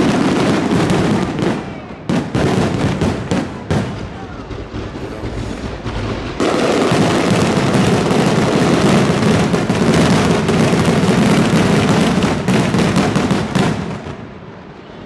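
Fireworks display: shells bursting with separate bangs and crackle, then from about six seconds in a dense, continuous barrage of rapid reports that drops off near the end.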